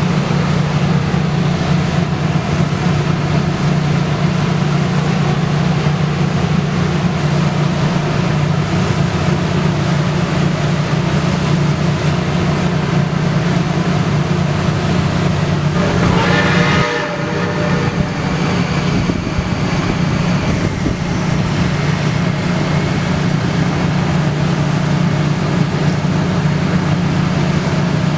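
Excursion train with S160 steam locomotive 1702 and diesel locomotives working up a grade, a steady low running sound throughout. About sixteen seconds in, a short whistle sounds, its pitch sagging slightly.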